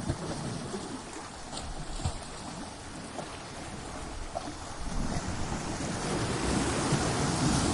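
Ocean waves surging and breaking against coastal rocks in a continuous wash of surf, with a wave building and crashing in the second half.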